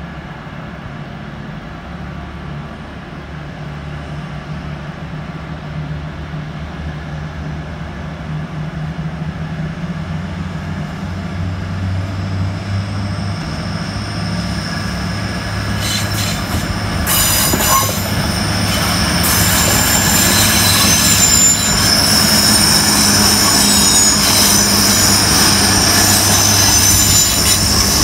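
Grand Central Class 180 diesel multiple unit approaching and passing close by, its underfloor diesel engines running as a low rumble that grows steadily louder. From about halfway, a high-pitched wheel squeal joins in and stays with it as the train goes past.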